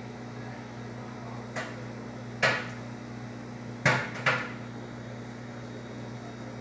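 Microwave oven running with a steady hum, broken by four short sharp knocks at uneven gaps, the loudest about two and a half and four seconds in.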